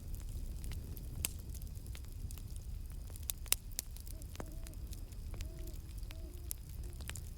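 Campfire burning with a steady low rumble and irregular crackles and sharp pops, two of them louder, about a second in and halfway through. Faint short owl hoots come in over it in the second half.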